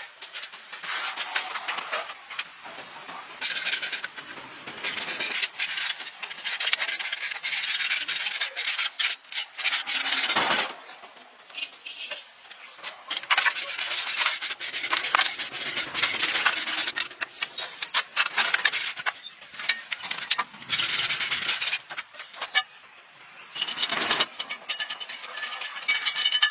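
Rough scraping or rasping in repeated stretches, starting and stopping every second or few, like a hard surface being scraped or brushed by hand.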